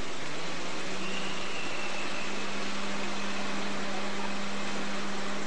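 A small car's engine running at low revs as the car moves slowly forward, heard under a steady hiss with a steady low hum.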